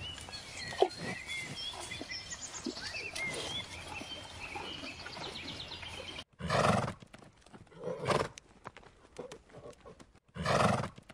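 Small birds chirping over a steady outdoor background. About six seconds in this gives way to a horse calling in three short, loud bursts about two seconds apart.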